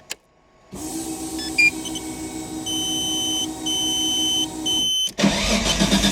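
Nissan 180SX with an RB25DET turbo straight-six being started on a freshly fitted battery: a click as the ignition is switched on, a steady electrical hum, a few short beeps and then three longer high beeps. About five seconds in, the engine cranks and fires.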